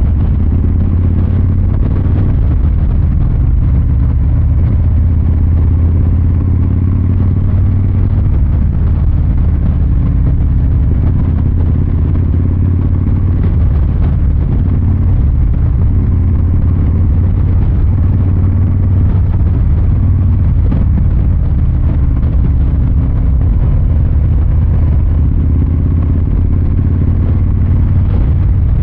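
The Milwaukee-Eight 114 V-twin of a 2023 Harley-Davidson Fat Boy 114, heard from the saddle, running steadily at an easy pace. It gives a deep, even exhaust note with no hard revving.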